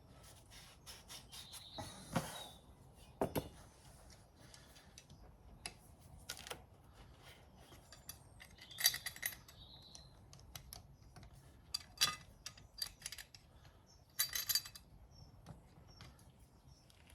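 Intermittent metallic clinks and knocks of hand tools and engine parts being handled, a few of them ringing briefly.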